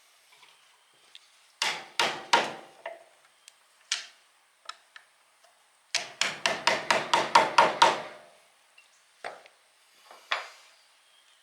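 Hammer blows on a part of an old Greaves horizontal milling machine that is being driven loose. There are three strikes about two seconds in, then a quick run of about ten blows in the middle, then a couple of single knocks.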